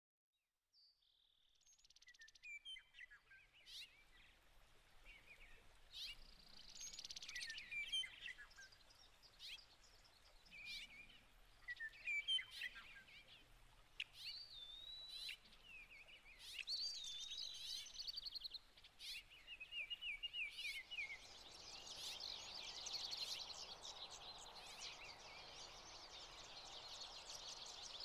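Songbirds chirping and singing, a mix of short calls and warbled phrases with a few faint clicks. About three-quarters of the way through it thickens into a continuous chorus of twittering.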